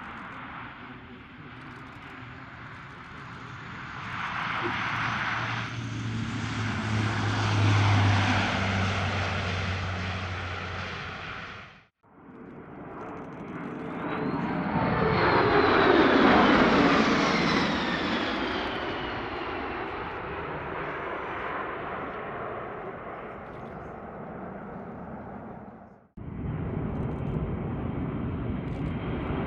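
Aircraft flying past in three cut-together clips, the engine sound swelling and fading as each goes by. In the middle clip it builds to a loud peak with a whine that falls in pitch as the aircraft passes.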